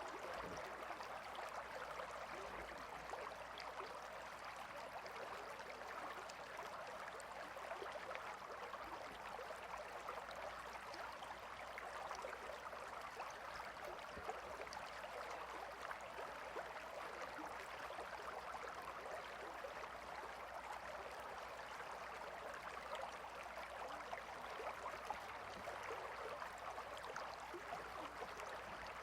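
A gentle river flowing: a steady, even rush and trickle of water that does not change.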